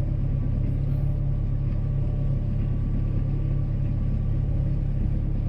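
Boat engine running steadily under way, a low even drone.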